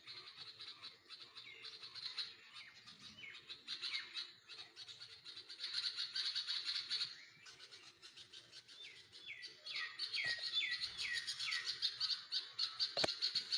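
Small birds chirping rapidly and continuously, with a run of about six short downward-sliding calls a little after halfway through. A short knock near the end.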